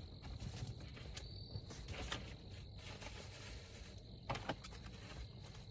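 Quiet handling of trim bolts and parts: a few faint clicks and taps, over a steady faint high-pitched tone.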